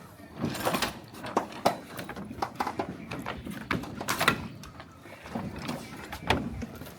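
A run of sharp, irregularly spaced knocks and clunks, the loudest about four seconds in.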